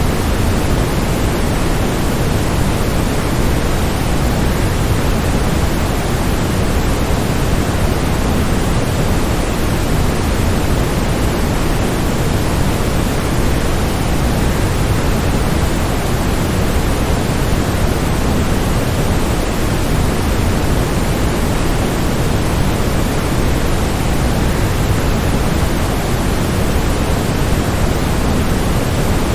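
Waterfall: a steady, unbroken rush of falling water, fuller in the low end, with no changes in level.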